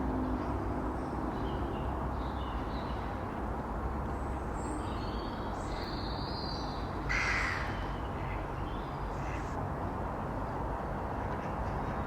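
A crow cawing: one brief, harsh call about seven seconds in. A few fainter, higher bird calls come around it, over a steady low outdoor rumble.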